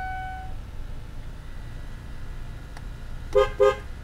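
Two quick car horn toots about three and a half seconds in, over the steady low idle of the Taurus's 3.0-litre Vulcan V6. A short steady tone sounds at the very start.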